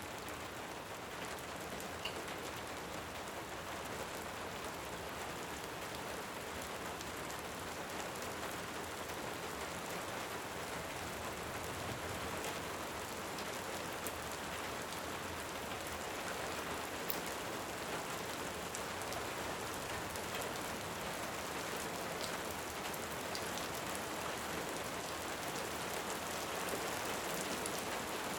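Steady rain falling, an even hiss, with scattered small crackles of a wood fire mixed in.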